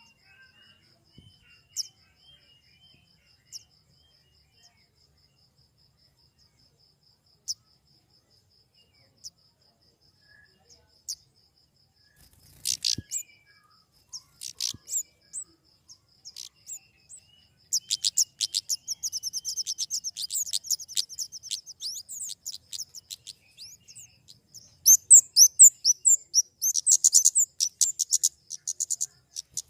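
Flowerpecker calls: thin, sharp, very high chips, first scattered singly, then from about halfway in running together into rapid twittering runs that are loudest near the end.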